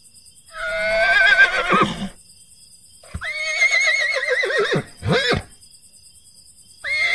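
Horse whinnying three times: two long quavering whinnies that drop in pitch at the end, a short call right after the second, and a third whinny starting near the end.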